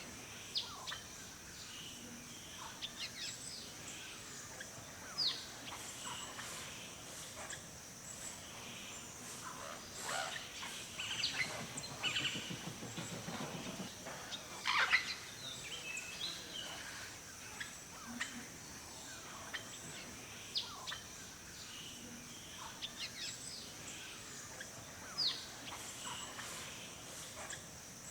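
Forest birdsong: many short chirps and quick falling whistles from several birds, busiest around the middle, over a steady high hiss.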